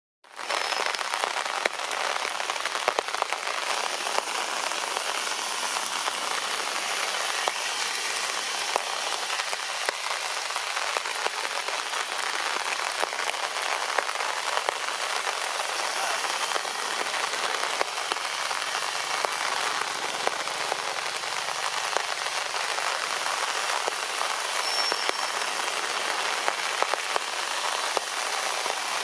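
Steady rain falling and pattering on surfaces, a dense hiss of countless small drop impacts.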